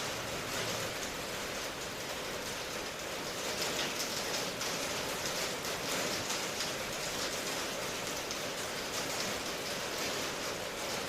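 Steady rain falling: an even hiss of many drops, with fine individual drop hits flickering through it. No thunder is heard.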